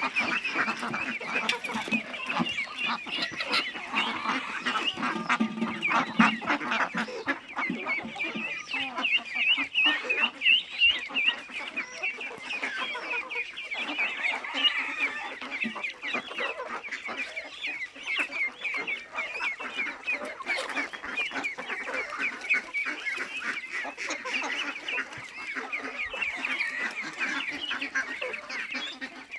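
A large flock of farmed ducks calling at once, a dense chorus of many short overlapping calls without a break.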